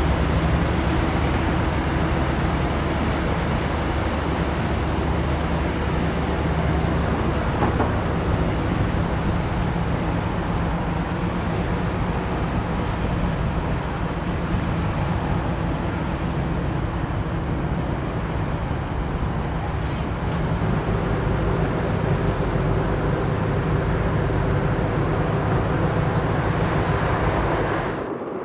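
Engines running with a steady low drone under a haze of outdoor noise; the deepest part of the drone fades about halfway through.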